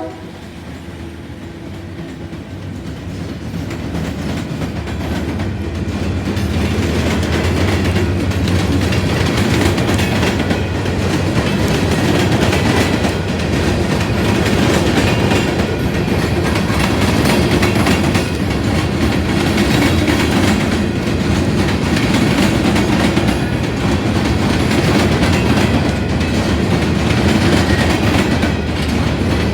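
Diesel-hauled coal train passing close by: a low rumble builds over the first several seconds, then holds steady as the cars roll past with a repeated clickety-clack of wheels over the rail joints.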